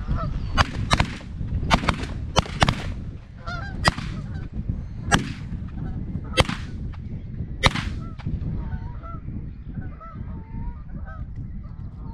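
Canada goose honking: a run of about nine short, sharp honks and clucks in the first eight seconds, then softer, wavering honks, over a low wind rumble.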